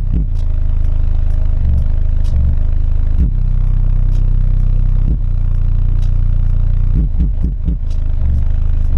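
Car-audio subwoofers, among them a Sundown Audio X-6.5, playing a bass-heavy track: loud, sustained deep bass notes, with a few quick sliding bass sweeps about seven seconds in.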